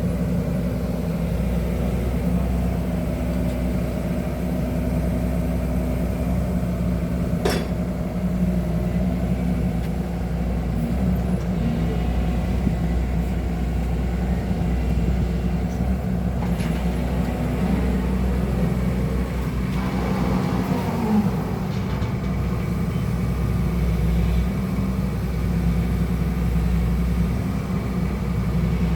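Excavator's diesel engine running steadily, with a sharp click about seven seconds in.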